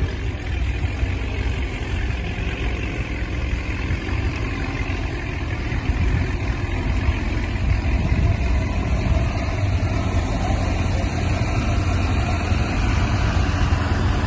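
Car engine idling, a steady low drone.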